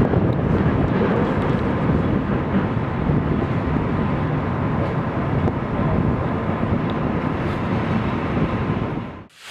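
Steady rumble and rush of a passenger train running at speed, heard from an open coach window: wheels on the rails and air rushing past, with a faint steady hum. It cuts off abruptly near the end.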